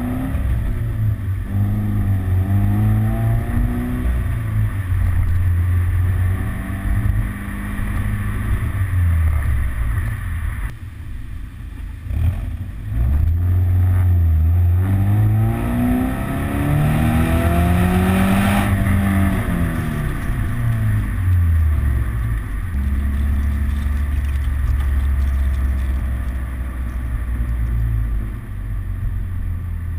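Subaru BRZ's 2.0-litre flat-four boxer engine heard through a Greddy EVO 3 exhaust with the silencers fitted, revved several times so the pitch rises and falls. Past halfway comes a longer climb to a higher rev that drops off sharply, and near the end the engine holds a steady lower note.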